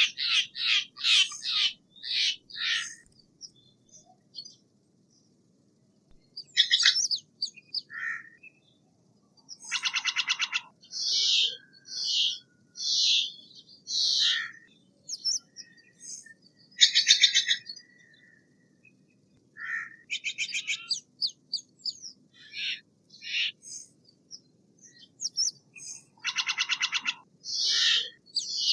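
Steller's jay calling: runs of short, harsh, rapid notes, and three longer raspy, rattling calls of about a second each, spread across the stretch with short pauses between.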